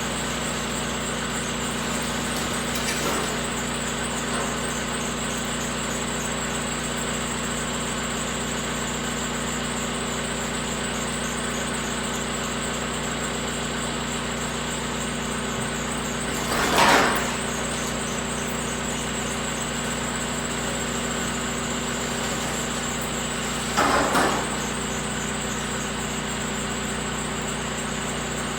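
A steady mechanical drone made of several fixed tones, with two brief, louder noisy bursts, one a little past halfway and another near the end.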